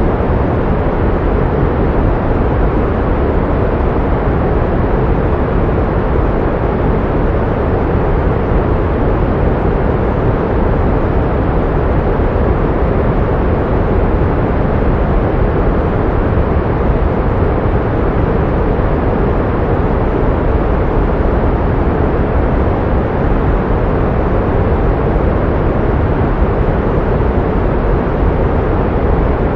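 Pink noise: a steady, loud, unbroken hiss weighted toward the low end, with no tones or events in it.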